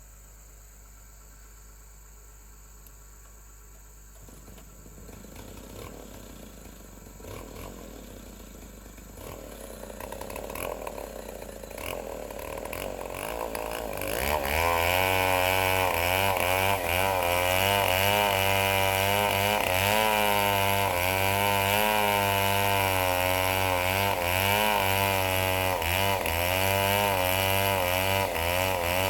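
Chainsaw cutting logs to length. It comes in with a few short revs, then from about halfway through runs loud at high speed, its pitch wavering as it bites into the wood.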